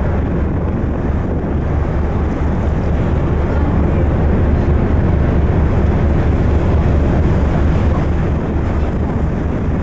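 Steady wind buffeting the microphone over the low rumble of the icebreaker's engines and the water along its hull.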